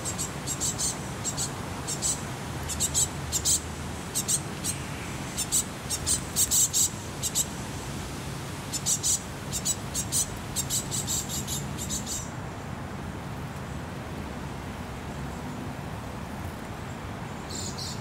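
Small birds calling in quick clusters of thin, high-pitched notes that stop about twelve seconds in, with one more short call near the end, over a steady low background rumble.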